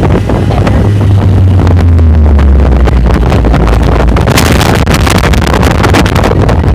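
Off-road vehicle engine running under heavily distorted, overloaded recording, its pitch dropping a little about two seconds in. From about four seconds, wind buffets the microphone.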